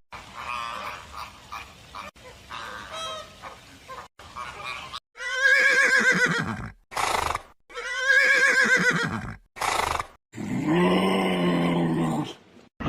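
An animal calling: several quavering, pitched calls, faint at first, then two loud ones about five and eight seconds in, and a lower, longer call near the end.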